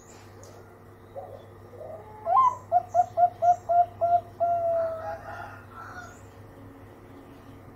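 Zebra dove (perkutut) cooing: a rising opening note, a quick run of six short, even notes, then one longer held note.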